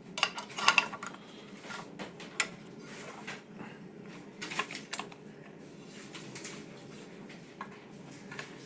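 Irregular light clicks and knocks from the adjustable table and small fittings of a Scheppach BTS700 belt and disc sander being handled, bunched in the first couple of seconds and again about four and a half to five seconds in.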